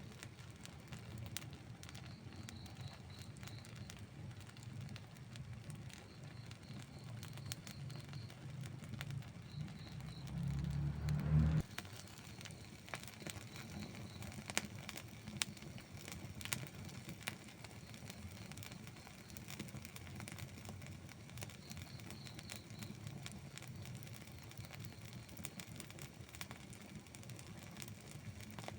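Outdoor wood campfire crackling, with scattered sharp pops over a soft steady burn. A low rumble swells from about ten seconds in and cuts off suddenly near twelve seconds.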